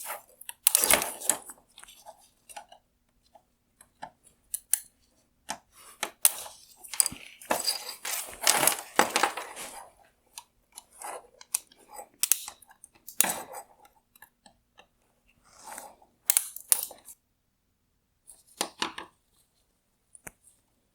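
Plastic tail-light parts being worked apart by hand: irregular crunching, scraping and snapping of hard plastic in uneven bursts, with a few sharp clicks near the end.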